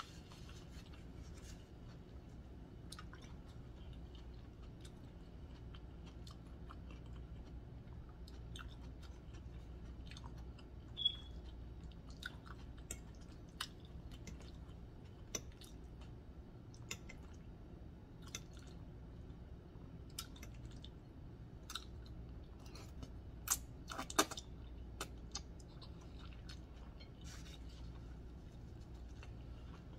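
A person eating spaghetti in deer sausage sauce close to the microphone: quiet chewing with scattered small clicks, and a sharper cluster of clicks about 24 seconds in, over a faint steady low hum.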